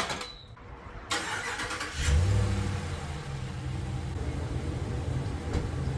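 A sharp click, then a pickup truck's engine cranks for about a second and catches, loudest just as it fires, settling into a steady idle.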